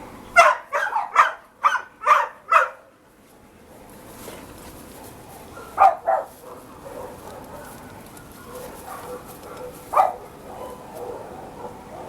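Dog barking: a quick run of about six barks in the first three seconds, two more about six seconds in, and a single bark near ten seconds.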